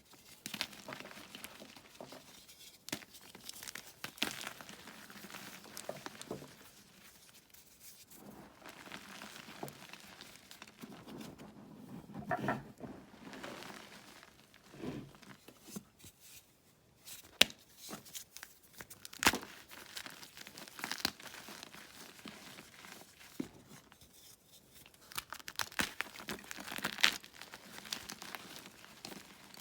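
Blocks of gym chalk being crushed and crumbled, a dry, irregular crunching and crackling with occasional sharp snaps as pieces break.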